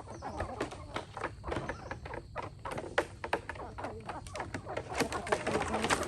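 Free-range chickens feeding on corn: many quick, irregular pecking taps, with clucks now and then.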